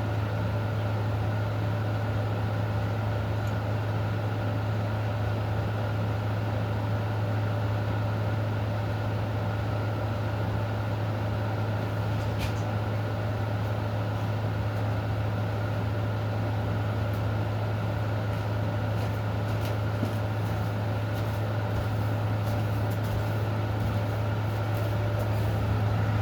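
Steady low mechanical hum with a few fainter steady tones above it, unchanging throughout. Scattered faint sharp ticks come in during the last several seconds.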